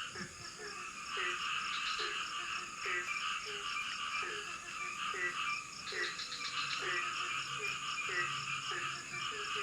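A chorus of frogs in tropical forest. One frog gives a short croak that drops in pitch, repeated about one and a half times a second, over a dense mass of higher calls and a steady high insect drone.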